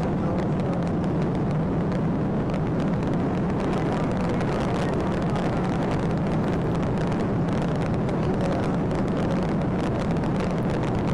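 Steady road and engine noise of a police patrol car driving at speed in pursuit.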